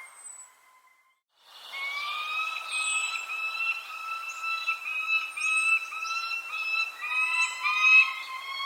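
Birds calling: a run of clear, repeated whistled notes, each about a third of a second long, with short high falling chirps over them. The sound drops out briefly about a second in, then resumes.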